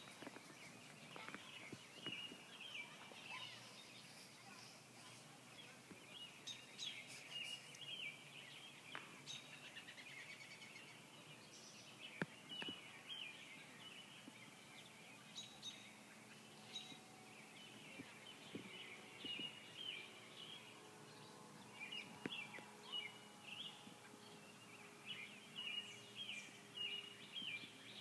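Faint outdoor ambience with small birds chirping repeatedly in short high calls. A faint, steady low hum joins about halfway through.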